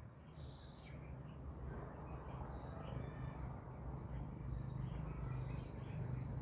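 Bulbuls giving scattered short chirps, a few times, over a steady low hum.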